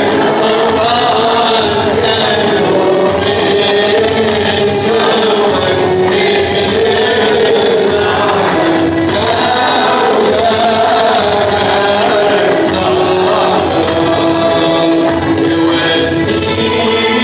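Arabic Christian hymn sung by male voices, with instrumental accompaniment and a steady percussion beat.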